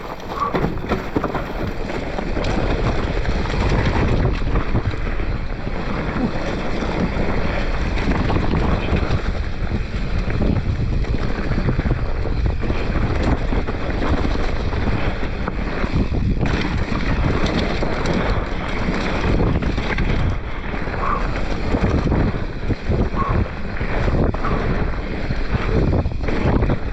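Wind rushing over the microphone of a mountain bike descending fast, with tyres rumbling over rough dirt and the bike rattling and knocking over roots and ruts.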